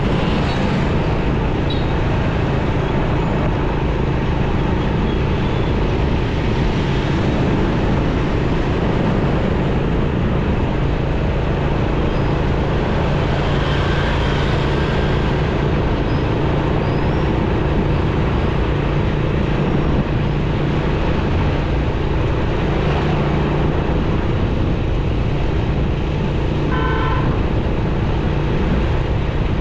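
Motorcycle riding in city traffic: a steady low engine note under constant road and wind noise, with the sound of surrounding vehicles. A vehicle horn honks briefly near the end.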